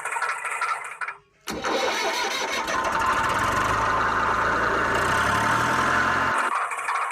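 An engine starting and then running steadily for about five seconds before cutting off abruptly, after a brief silence about a second in.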